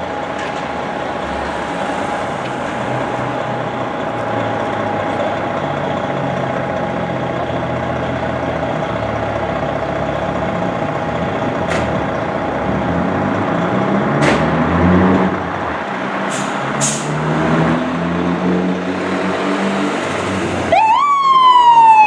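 Fire engine's diesel engine running with a steady high whine, then revving up in steps as it pulls away, with short air-brake hisses. Near the end its siren starts, rising sharply and then sliding slowly down in pitch.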